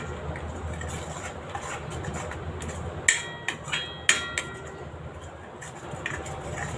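Metal spoon stirring and scraping a masala paste as it sautés in oil in a pan, with a few ringing clinks of the spoon against the pan about three and four seconds in, over a steady low hum.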